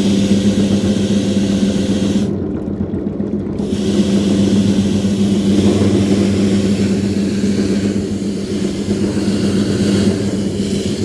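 Shoe washing machine running: a steady motor hum under water swishing and splashing, the splashing stopping for about a second a little over two seconds in while the hum carries on.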